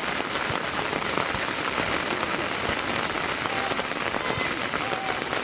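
Heavy rain falling steadily, a dense, even hiss of drops on the ground.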